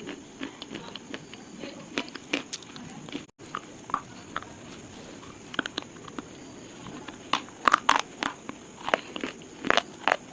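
Pieces of slate being crunched and snapped, an irregular run of sharp dry cracks. They come sparsely at first, then thick and loud about three quarters of the way through.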